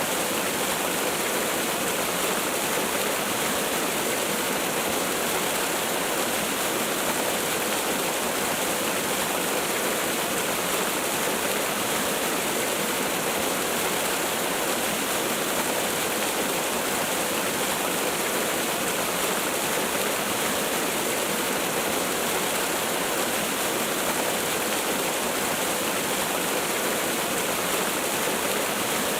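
Waterfall: falling water rushing in a steady, unbroken hiss, with no change.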